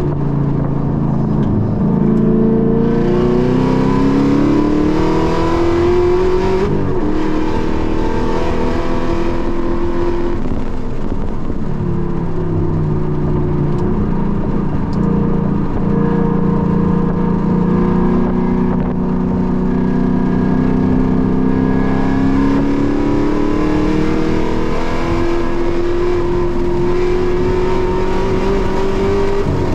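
Car engine at full track pace heard from inside the cabin, climbing in pitch under hard acceleration, easing off partway through, then pulling up through the revs again.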